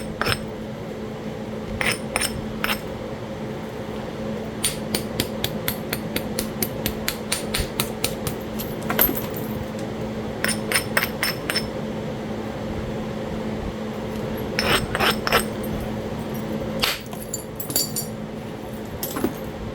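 Talahata quartzite being knapped stone-on-stone: runs of sharp clicks and taps, several a second at times, then in short clusters, as the edge is worked. A steady low hum runs underneath.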